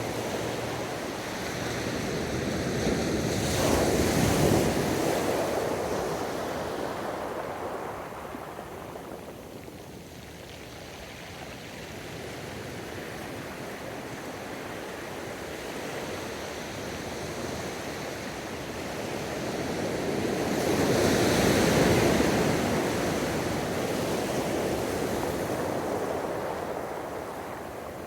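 Ocean waves breaking on a beach: one wave crashes about four seconds in and washes out, a quieter lull follows, then a second wave breaks a little after twenty seconds in and slowly fades.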